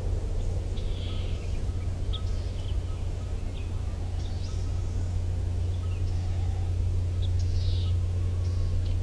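Birds chirping in short, scattered calls over a steady low hum, which is the loudest sound.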